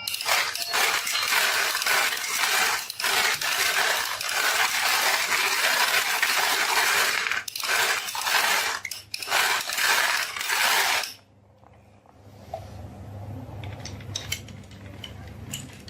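Many marbles clattering and rolling down a toy marble run in a dense, continuous rattle of clicks, which stops abruptly about eleven seconds in. After that there is a quieter low hum with a few scattered light clicks.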